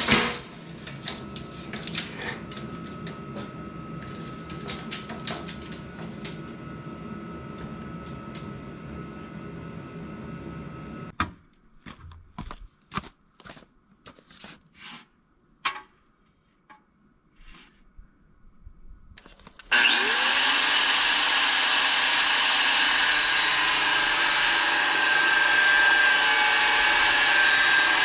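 Angle grinder with a cutoff disc spinning up with a brief rising whine and then cutting angle iron with a loud, steady, hissing noise, starting abruptly about two-thirds of the way in. Before it there is a low steady hum with scattered metal clinks and knocks from the steel being handled.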